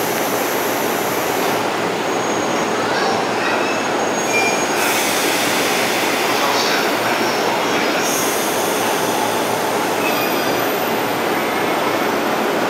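JNR 185 series electric train pulling out of a station platform: a steady, loud rush of running noise with a few faint high squeals.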